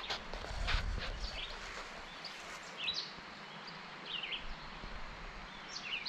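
Small birds chirping, short high calls every second or so over a quiet outdoor hush, with some rustling knocks in the first second.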